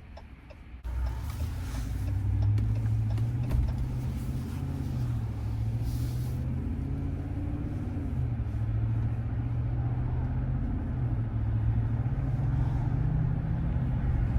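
Dodge Ram pickup driving, its engine drone and road noise heard from inside the cab. The sound starts abruptly about a second in, and the engine's low pitch drifts slightly up and down.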